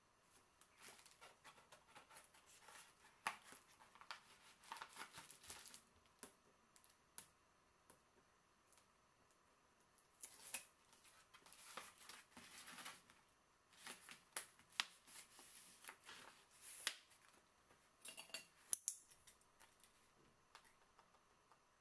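Quiet, intermittent handling sounds: short clicks, snips and rustles of small objects being worked by hand, coming in several clusters.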